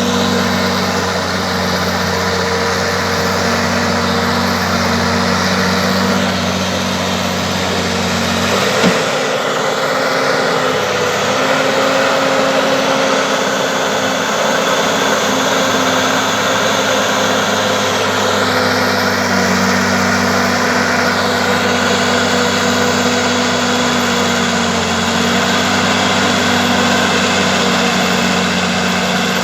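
Bulldozer's diesel engine running steadily, with a single short knock about nine seconds in.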